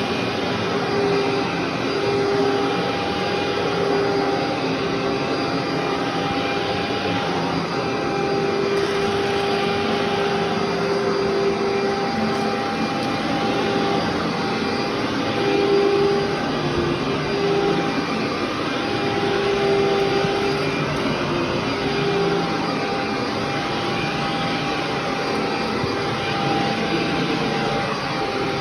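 Vacuum cleaner running steadily. Its motor hum wavers slightly in pitch over a constant rush of air.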